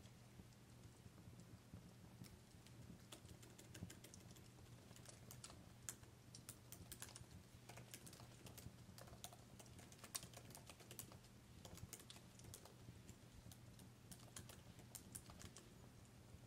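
Wood fire crackling in a fireplace: faint, irregular sharp pops and snaps over a steady low hum.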